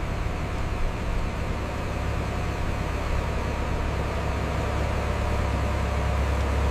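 Heavy diesel construction machine running steadily, a continuous low engine drone with a haze of mechanical noise above it.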